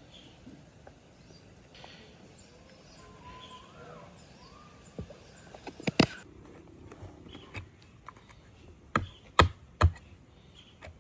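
A few sharp knocks: a cluster about six seconds in, then three louder ones near the end, over faint bird calls.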